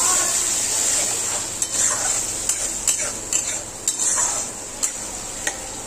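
Tomato-onion masala frying and sizzling in a kadhai while a steel spatula stirs it. From about a second and a half in, the spatula gives a run of sharp clicks and scrapes against the pan.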